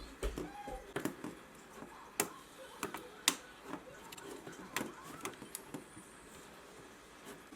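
Irregular light clicks and knocks of household things being handled, a dozen or so scattered through, with faint voices now and then.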